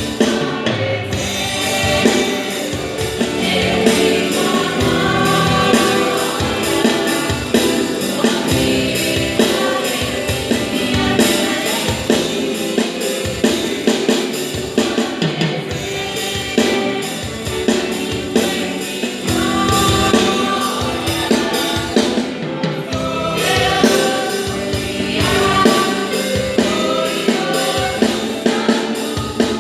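Gospel song with a choir of several voices singing in harmony over a drum kit and band with a steady beat.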